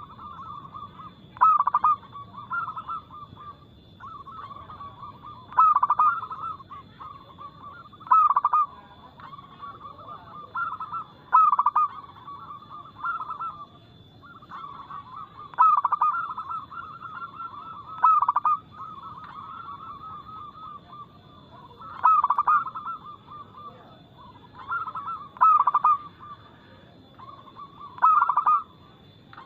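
Zebra doves (perkutut) cooing: loud, repeated coo phrases every two to three seconds, with softer trilling calls running between them.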